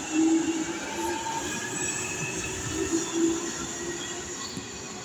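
London Underground train running on the rails, its wheels squealing in several held tones over a steady rumble.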